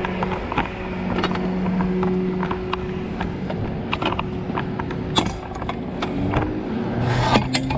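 A vehicle engine running steadily, with many short metallic clicks and clanks over it and a brief rush of noise near the end.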